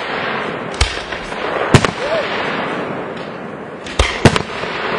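Aerial fireworks bursting: a sharp bang about a second in, another just before two seconds, and two close together about four seconds in, over a continuous hiss.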